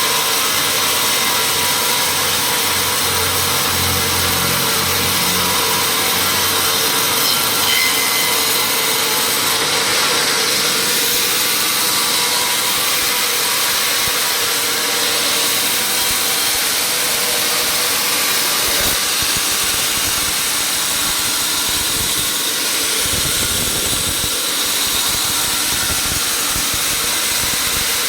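Power saw running steadily and cutting wood, a loud, even noise that hardly changes.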